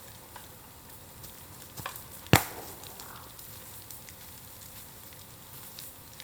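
Bamboo bonfire crackling, with scattered light snaps and one loud, sharp pop a little over two seconds in, typical of a bamboo section bursting in the heat.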